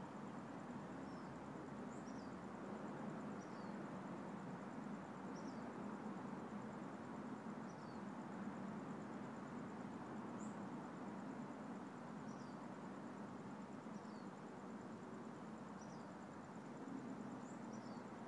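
A small bird gives short, high, falling chirps every couple of seconds. Behind it is steady outdoor background noise with a faint, thin, high whine running throughout.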